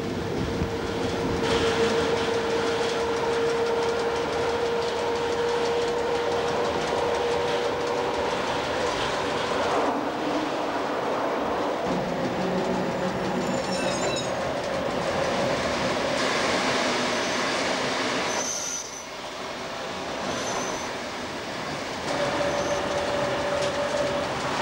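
A train running along the track, heard from the driver's cab: steady rolling and rail noise with a held whine for the first nine seconds, which returns near the end.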